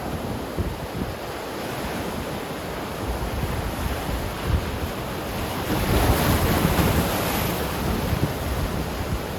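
Ocean waves breaking and washing on the shore, with wind buffeting the microphone. A wave swells and breaks louder about six seconds in, then eases.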